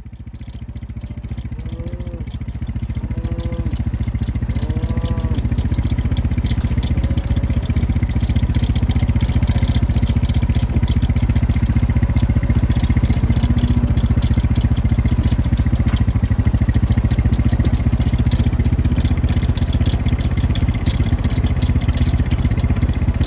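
A vehicle engine running steadily, growing louder over the first several seconds, with a continuous rattling clatter. Three short calls sound about two, three and five seconds in.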